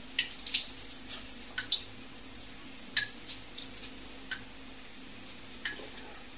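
Light, sharp clicks and ticks at irregular intervals, about ten in all, some in quick pairs, over a faint steady hum.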